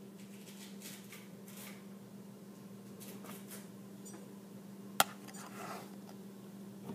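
A single sharp clink of kitchen dishware about five seconds in, with faint handling noises of a mug and spoon and a steady low hum.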